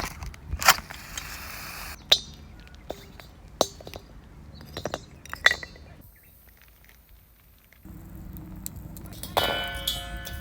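A scatter of sharp metal clinks and knocks, as of camp cooking gear being handled, with a quieter stretch about six seconds in and a short pitched sound near the end.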